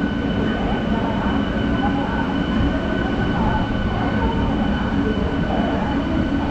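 An electric MEMU commuter train rolling along the track, heard on board: a steady rumble of the wheels and coach with a thin, steady high whine over it.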